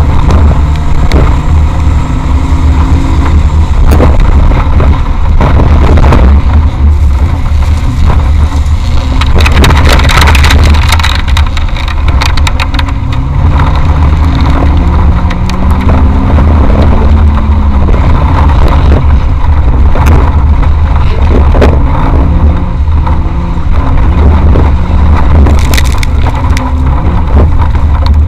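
Off-road competition vehicle driven hard, heard on board: a constant heavy low rumble, with the engine's pitch rising and falling and climbing steadily for several seconds midway. Frequent knocks and rattles run through it.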